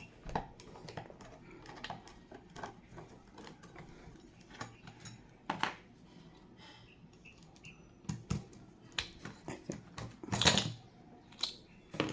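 Irregular small clicks and taps of hand work on door latch hardware as it is being removed, with a louder scrape or knock near the middle and another near the end.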